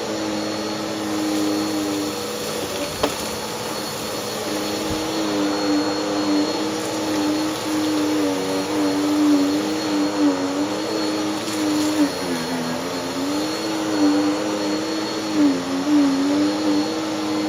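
Orange Bissell CleanView upright vacuum running, its motor hum wavering and dipping in pitch several times, most deeply about twelve seconds in.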